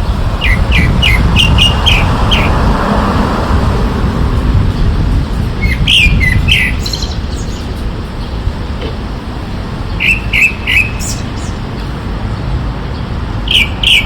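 Bird chirping in short runs of quick, falling notes: about six near the start, a few around six seconds in, three about ten seconds in and two at the end, over a steady low rumble.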